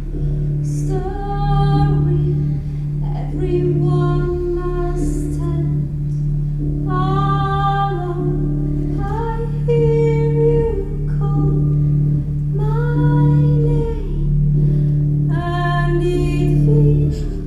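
Music: a voice singing slow, held phrases over a steady low drone.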